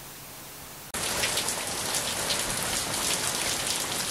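Faint background hiss, then about a second in steady rain falling starts abruptly, a dense even patter of drops that carries on to the end.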